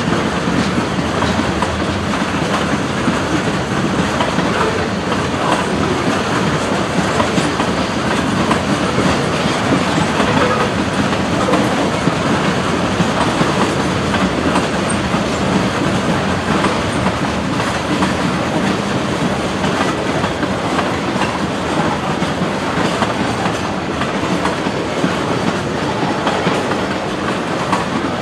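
Freight train cars rolling past, a steady rumble of steel wheels on rail with repeated clicking as the wheels cross the rail joints.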